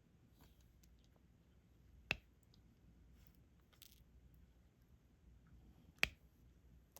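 Faint small ticks of diamond-painting work, the applicator pen and resin drills, with two sharp clicks, one about two seconds in and one about six seconds in.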